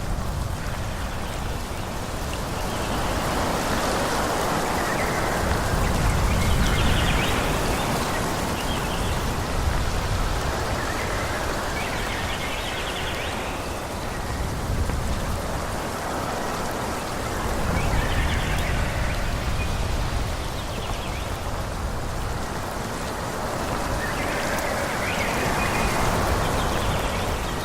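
Wind gusting through forest trees, leaves rustling in a steady rain-like hiss that swells and eases every few seconds over a low rumble.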